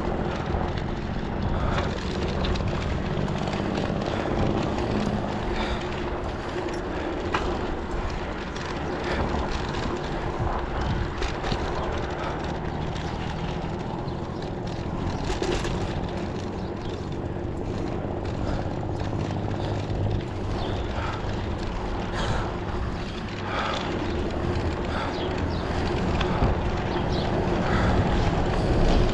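Steady rush of wind and road noise from a moving ride, with a low rumble and a faint steady hum throughout.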